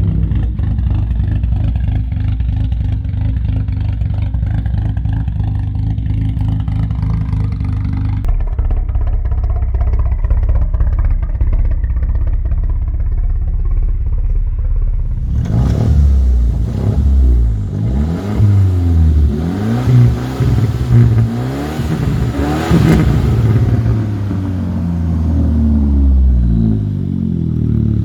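Saab B235R 2.3-litre turbocharged four-cylinder petrol engine idling steadily, its idle note shifting lower about eight seconds in. From about halfway through it is revved up and down repeatedly in short blips.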